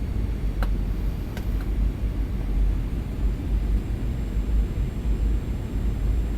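Steady cabin rumble and air hiss inside a Boeing 737-800 in flight, from its CFM56 jet engines and the airflow over the fuselage, with a few faint clicks in the first two seconds.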